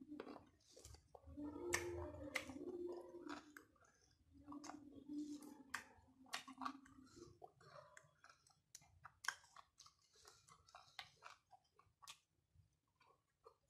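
Close-up chewing and lip smacking of a man eating rice by hand, with many sharp wet mouth clicks. A low hummed note sounds twice in the first half.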